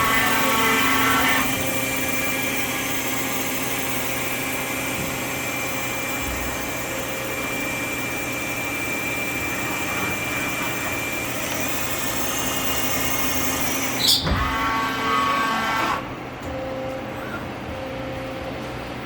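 Yama Seiki GLS-1500L CNC turning center running with a steady mechanical whir and hum. There is a sharp clack at the start and another about fourteen seconds in, then the machine noise drops a little for the last few seconds.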